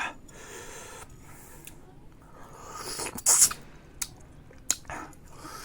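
Mouth sounds of a person eating bayberries: clicks, wet chewing and breathy noises, with a loud, sharp hissing noise about three seconds in.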